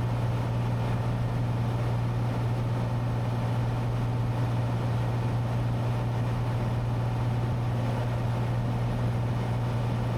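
Cessna 182T's six-cylinder Lycoming IO-540 engine and propeller droning steadily in flight, heard inside the cabin as a constant low hum over even wind and engine noise.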